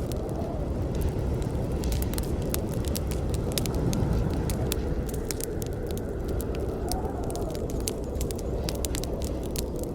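Campfire burning with a steady low rush and frequent sharp crackles and pops of burning wood.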